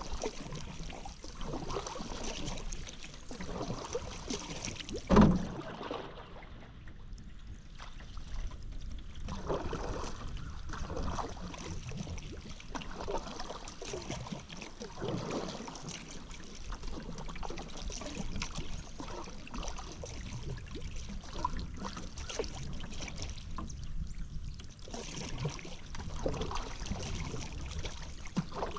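Paddle strokes in river water: repeated splashes and drips from the blade every second or so, with one sharp knock about five seconds in.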